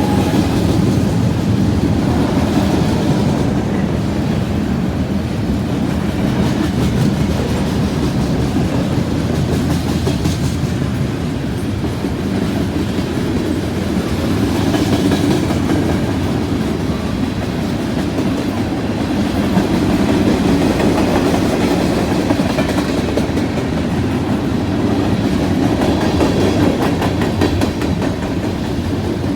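Freight train rolling past at speed, a steady rumble with the clickety-clack of wheels over the rails.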